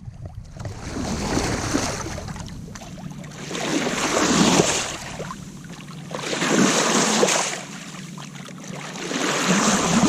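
Water washing and surging along a sailboat's hull under way, swelling and easing about every three seconds as the waves pass.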